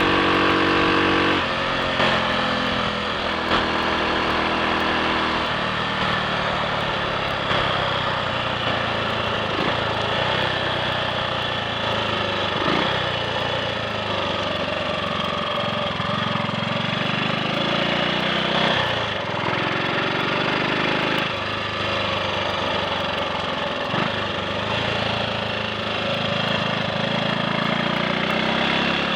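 Triumph Sports Cub's single-cylinder four-stroke engine running while the motorcycle is ridden, its pitch stepping down sharply about a second in and changing several more times with throttle and speed. It runs evenly, without the misfiring and cutting out it had before the fuel tank was cleaned.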